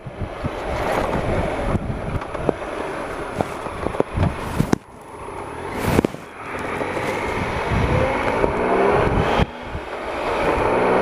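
Triumph Explorer XC's 1215cc three-cylinder engine pulling the bike slowly along a rutted, muddy track, with several sharp knocks and thumps from the ruts. Near the end the engine note rises as the rider opens the throttle.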